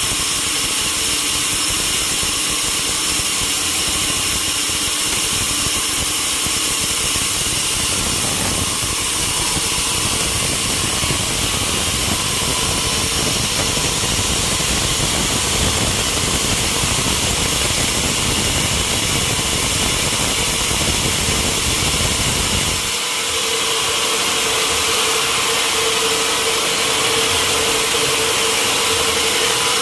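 A sawmill saw and its engine running steadily, a continuous machine noise with a steady high whine. About three-quarters of the way through, the low rumble drops away and a steadier mid-pitched hum comes up, as the load on the machine changes.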